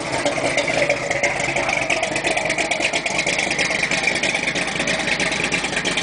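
Chevrolet 396 big-block V8 with a lumpy Comp camshaft idling at about 700–800 rpm, with a choppy, lumpy beat. The idle has not yet been set up since winter.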